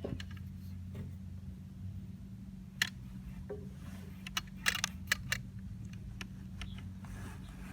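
Scattered sharp clicks and taps over a steady low hum, with a cluster of them about four to five seconds in.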